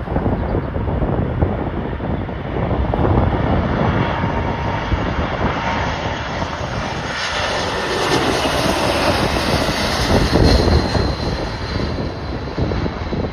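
Jet airliner on landing approach passing close by, its engine noise building to a peak about eight to eleven seconds in, over gusty wind buffeting the microphone.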